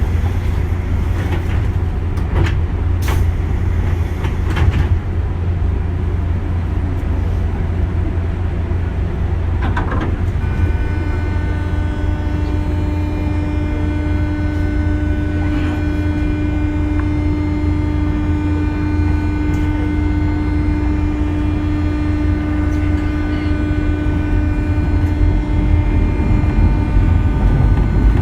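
Onboard running sound of a JR 201 series electric train: a steady low rumble of wheels on rails, with a few sharp clicks in the first five seconds. From about ten seconds in, a steady hum of several fixed tones from the train's chopper control runs until near the end.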